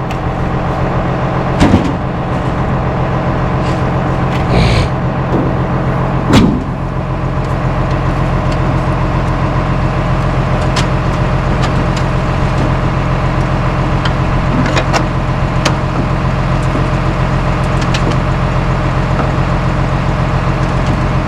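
An engine idling steadily, with a few knocks and thumps about 2, 5 and 6 seconds in.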